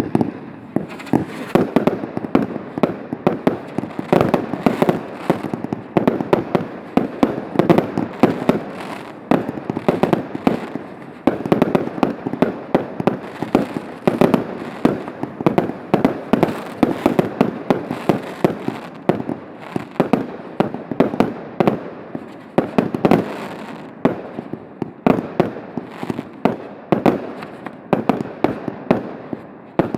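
Professional fireworks display: a dense, continuous barrage of aerial shells bursting, several sharp bangs a second with no pause.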